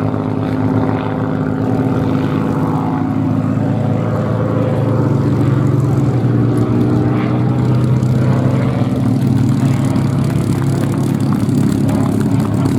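Supermarine Spitfire's piston engine droning steadily as the plane flies its display, the pitch sagging slightly and the sound growing a little louder around the middle.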